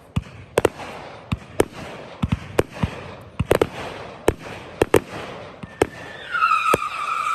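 Fireworks going off: a rapid, irregular string of sharp bangs and pops, a dozen and a half in about seven seconds. Near the end a steady high whistle comes in.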